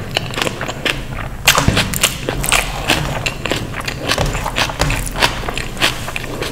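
A person chewing and biting food, with many quick clicks and smacks of the mouth.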